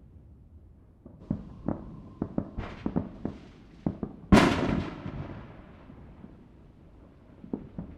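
Neighbourhood fireworks: a quick irregular string of sharp firecracker pops, then about four seconds in one loud bang with an echoing tail that fades over a second or so, and a couple more small pops near the end.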